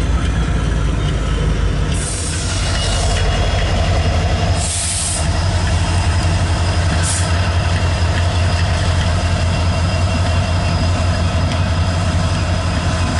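CSX freight train's diesel locomotives passing close, with a loud steady low engine drone, followed by loaded autorack cars rolling by on the rails. Thin steady squeal tones run through it, and there are brief hissing noises about two, five and seven seconds in.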